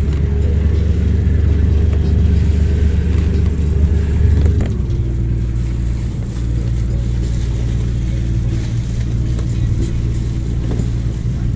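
A boat's engine running steadily under a hiss of wind and water. Its note changes about four and a half seconds in, as if the throttle was eased.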